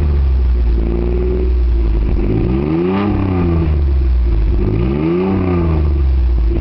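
1989 Nissan Pathfinder SE's 3.0-litre V6 running with the muffler cut off, exhausting through the catalytic converter and a bare flex pipe, a little deeper than stock. It idles between short rev blips: one settling back at the start, then two more that rise and fall, peaking about three seconds and five seconds in.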